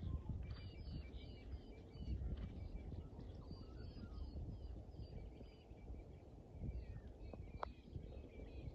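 Small birds chirping and calling with many short, quick notes, over a constant low rumble.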